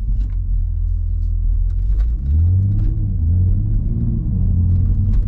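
The 2020 Toyota Supra's 3.0-litre turbocharged inline-six, heard from inside the cabin in sport mode: a low steady drone whose pitch rises and falls a few times from about two seconds in as the throttle changes.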